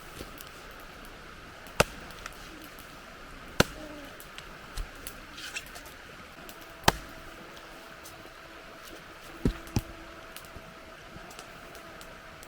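A handful of sharp knocks or snaps, a few seconds apart with a close pair near the end, over steady outdoor background noise. A faint steady hum comes in about halfway through.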